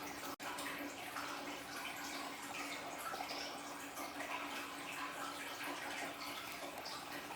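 Aquarium waterfall: water trickling and splashing continuously into the tank, over a steady low hum. The sound drops out for an instant just under half a second in.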